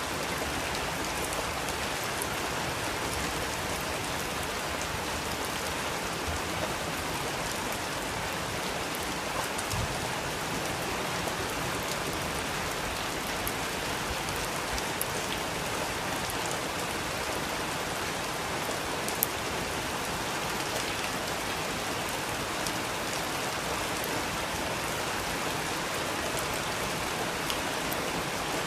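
Steady rainfall, an even hiss of rain with scattered distinct drops tapping close by, one louder drip about two-thirds of the way through.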